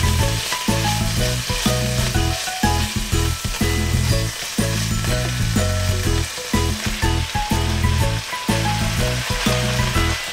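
Thinly sliced pork belly and komatsuna stems sizzling in sesame oil in a hot frying pan as they are stir-fried with chopsticks, under background music with a steady beat.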